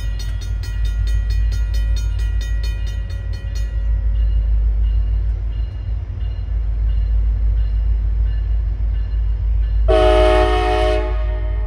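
Steady low rumble of the passenger train rolling by, with a railroad crossing bell ringing rapidly for the first few seconds and then faintly. About ten seconds in, the diesel locomotive's air horn gives one short chord blast of about a second and a half.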